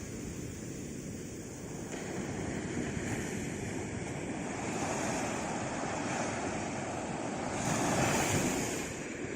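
Sea waves washing onto a shore: a steady roar of surf, with one wave swelling from about halfway in and breaking loudest near the end.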